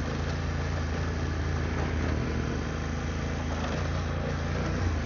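BMW F900GS parallel-twin engine running at a steady, moderate throttle while riding a dirt trail, heard from the rider's position with a steady rush of noise over it.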